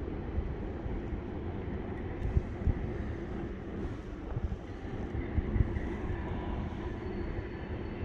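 Steady low rumble of a distant heavy freight train hauled by six diesel locomotives, with wind buffeting the microphone in a few sharp low thumps.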